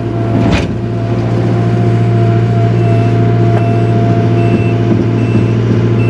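Takeuchi TL240 skid steer's diesel engine running loud and steady, heard from the operator's seat. From about three seconds in, its backup alarm beeps about once a second as the machine reverses.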